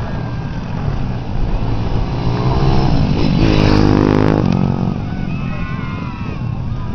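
Motocross bike engines running at high revs, with one bike growing loud and passing close about halfway through, its pitch rising and then dropping as it goes by.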